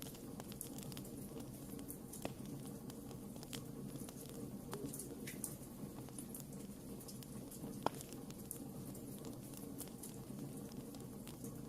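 Wood campfire crackling: a steady low rush of burning with scattered small snaps and pops, two sharper pops about two seconds in and again near eight seconds.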